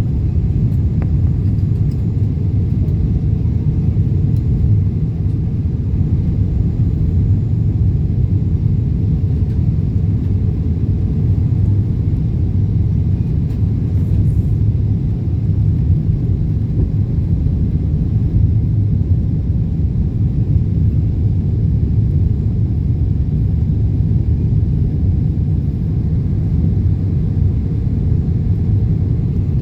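Steady low rumble inside a jet airliner's passenger cabin on final approach: engine and airflow noise, unchanging throughout.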